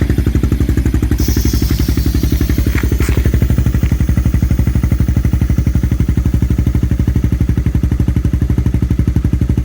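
Yamaha Morphous scooter with a swapped-in 400 engine idling steadily through a Yoshimura RS3 muffler, a deep, evenly pulsing exhaust note. A brief hiss comes about a second in.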